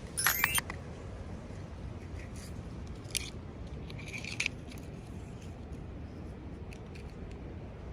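A few short crinkling, scraping bursts from toy packaging being handled and opened. The loudest, a brief squeaky crinkle, comes just at the start, and two shorter rustles follow a few seconds later.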